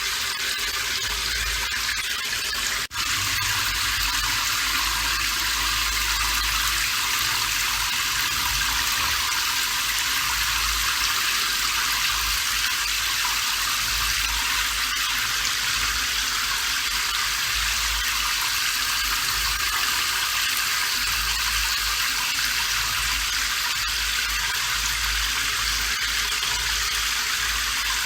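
Steady rain falling, an even hiss, with a momentary break in the sound about three seconds in.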